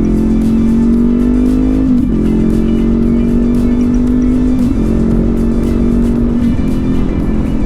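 Honda CB500X parallel-twin motorcycle engine accelerating and upshifting. Its pitch climbs steadily and drops sharply at each shift, three times: about two seconds in, near the middle and about a second before the end.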